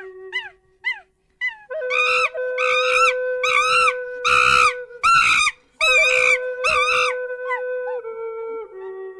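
An animal calling in a run of about seven short cries with a rising-and-falling pitch, over gentle background music with long held notes.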